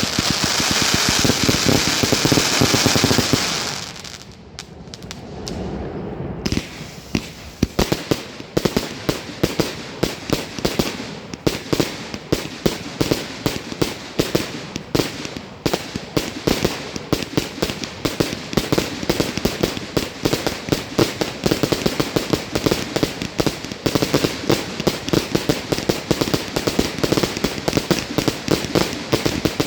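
Fireworks going off: a dense, loud hissing crackle for the first few seconds, a short lull, then a long run of rapid, closely packed cracks and bangs.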